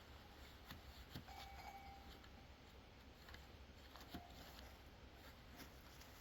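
Near silence, with faint scattered clicks and a low hum.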